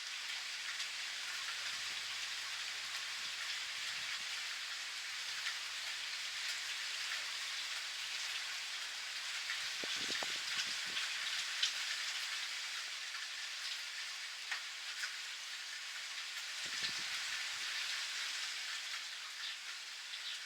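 Steady rain falling, a continuous hiss with scattered individual drops ticking on a surface. A brief low rumble about half-way through and another near the end.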